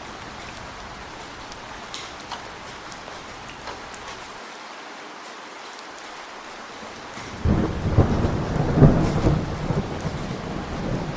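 Steady rain with scattered sharp drips, then about two-thirds of the way through a thunderclap breaks in suddenly and rolls on as a loud, crackling rumble, peaking a second or so after it starts.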